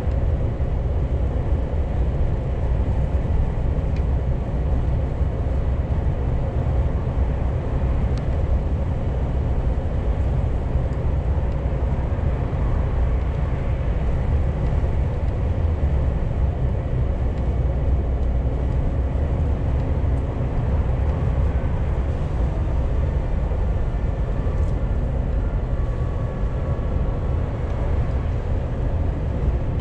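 Scania G410 CNG truck driving, heard from the cab: a steady low engine and road rumble with a faint steady hum above it.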